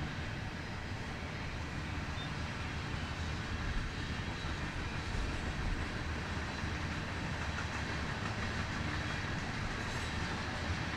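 Freight train rolling past, a steady noise of its wheels and cars on the rails.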